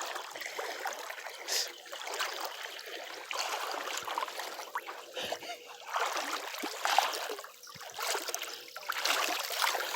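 Feet wading through shallow, flowing floodwater: uneven splashing and sloshing over the sound of running water.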